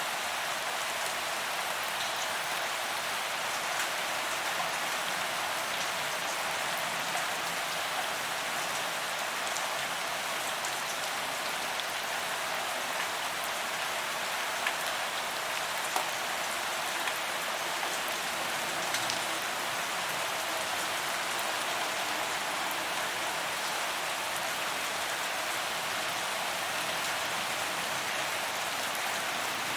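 Steady rain falling on pavement, a constant hiss of drops with a few louder drip ticks now and then.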